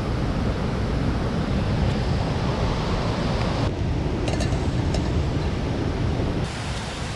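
Mountain stream rushing steadily, its tone shifting abruptly twice, with a few faint clicks about four seconds in.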